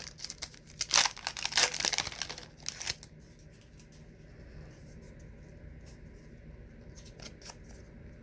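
A 1995 SkyBox trading card pack wrapper being torn open and crinkled for about three seconds, then only faint light ticks and rustles as the cards are handled.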